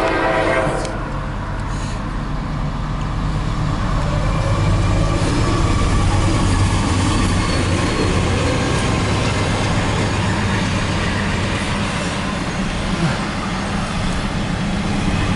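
Intermodal freight train passing with a steady low diesel drone and continuous wheel noise on the rails. The tail of a horn blast cuts off about a second in.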